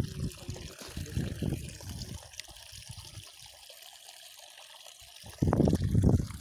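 Water trickling and sloshing at the canal's edge, with a louder, short low rumble about five and a half seconds in.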